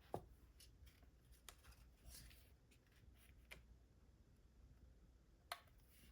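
Near silence with a few faint taps and rustles of cardstock being handled, and one sharper tap near the end.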